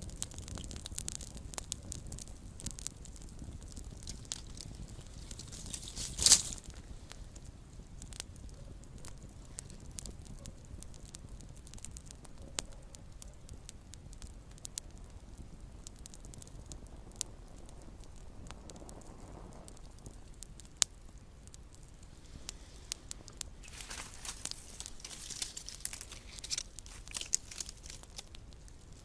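Small campfire crackling, with scattered sharp snaps over a low steady hiss. One much louder pop comes about six seconds in, and the crackling thickens for a few seconds near the end.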